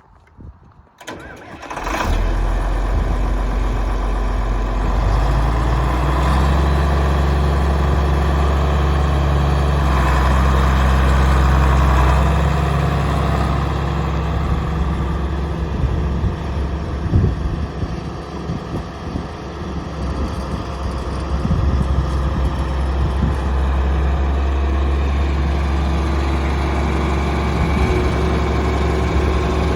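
John Deere 4230's six-cylinder diesel engine being started: it catches within about two seconds and then runs at a steady idle, slightly louder around ten to twelve seconds in and less even for a while in the middle.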